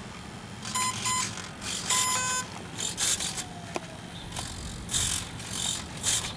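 Two short electronic beeps, then a longer beep with several tones, followed by a series of short bursts of rustling noise.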